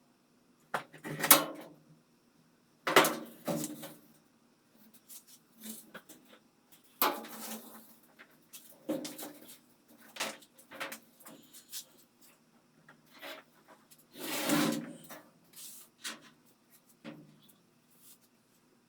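Washing-machine parts and tools being handled during reassembly: a string of irregular knocks, clatters and scrapes, the loudest about a second in, at three seconds, at seven seconds and a longer scrape-like one near fourteen and a half seconds.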